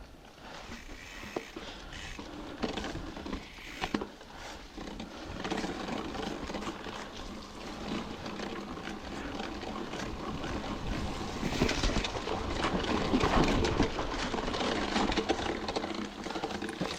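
Mountain bike climbing over rock: tyre and drivetrain noise with scattered knocks and rattles, louder in the second half.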